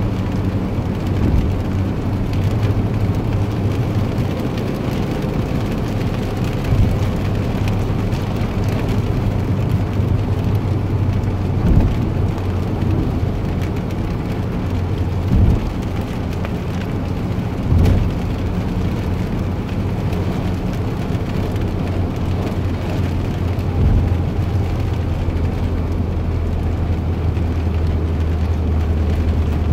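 A steady low mechanical rumble with a constant low hum, broken by a few brief thumps.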